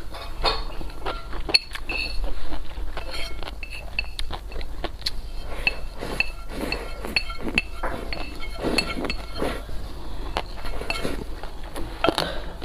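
Close-miked eating: repeated light clinks of tableware, with short pings and clicks scattered throughout, mixed with chewing and mouth sounds.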